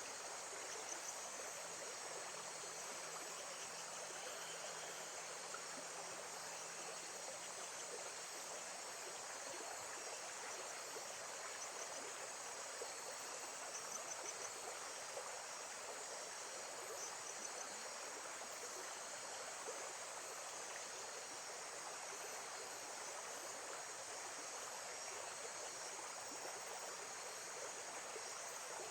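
Nature ambience of steady running water, with a continuous high insect drone and scattered faint chirps above it.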